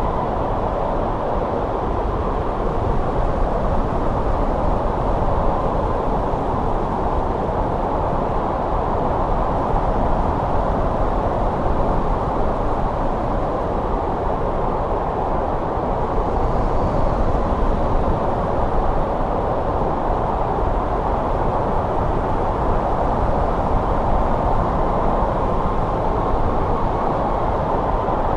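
Steady snowstorm wind, a constant low rushing that swells gently now and then.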